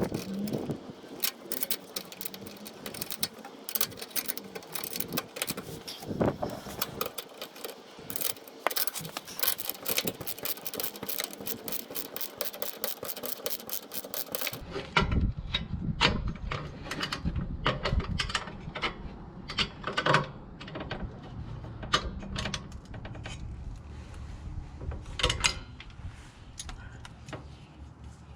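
Irregular clicks, knocks and rattles of tools and metal parts being handled during fitting work. About halfway through, a low rumble starts underneath the clicks.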